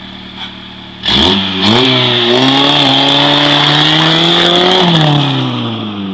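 Opel Vectra engine through its tuned exhaust: idling, then about a second in revved hard, the pitch climbing and held loud for about four seconds before dropping back toward idle near the end.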